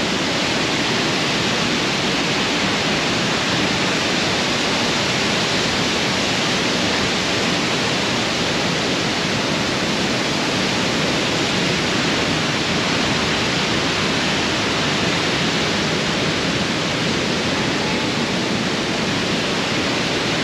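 Waterfall's loud, steady rush of falling water: a dense, even noise that never lets up.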